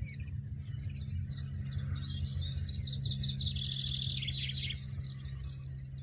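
European goldfinch singing a rapid, tinkling twitter, busiest around the middle, over soft background music with a low held note.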